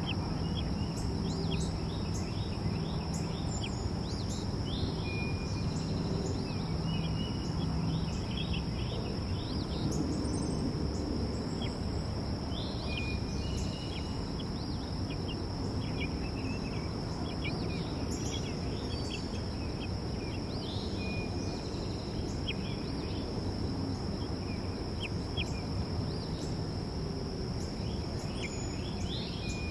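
Backyard songbirds giving short, scattered chirps and tweets over a steady high insect drone, with a constant low rumble underneath.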